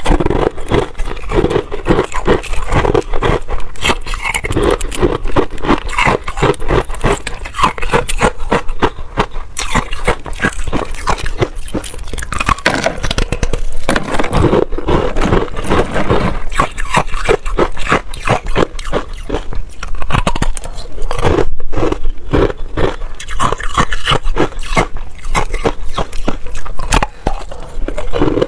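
Freezer frost being bitten and chewed up close: a dense, continuous run of crisp crunching and crackling.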